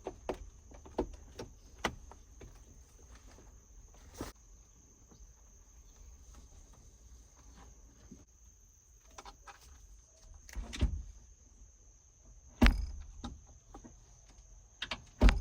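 Scattered clicks and knocks of dashboard parts being handled and fitted while installing a gauge cluster in a 2003 Chevy Silverado, with three louder thumps in the second half. A steady high-pitched trill runs faintly underneath.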